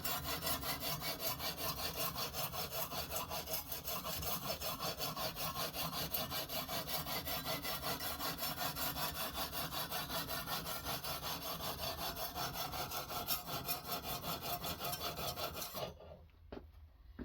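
A Ruixin Pro sharpening stone on a guided sharpening system being stroked rapidly back and forth along a knife blade: a steady, even scraping, several strokes a second. It stops abruptly near the end, followed by a few light clicks.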